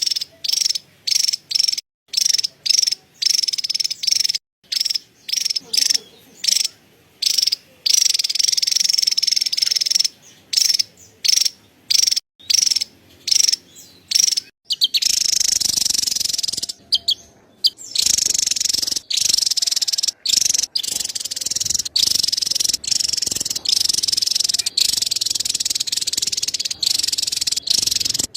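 Javan tesia giving its rapid, high-pitched scolding chatter, in bursts of a second or so separated by short breaks.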